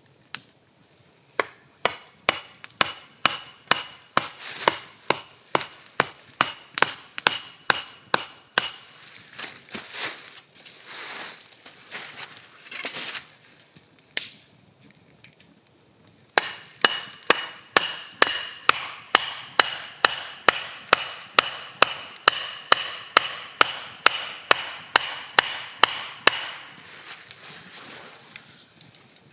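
A knife chopping fast and evenly on a cutting board, about three strokes a second, with a faint ring on each stroke. It comes in two long runs with a short pause about halfway through.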